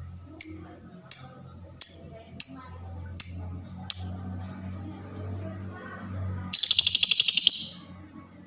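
Lovebird giving six sharp, shrill chirps at an even pace, then breaking into a loud, rapid chattering trill lasting about a second.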